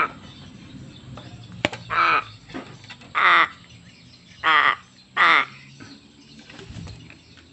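Crow cawing: four loud, harsh caws spaced about a second apart, with a fainter short call between the first two. A single sharp click comes just before the first caw.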